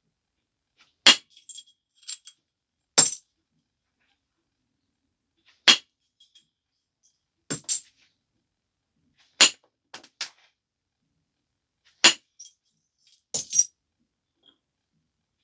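Flintknapping on a stone biface: sharp clicks as flakes are detached, about eight of them a second or two apart, some doubled. Fainter ticks follow some of them.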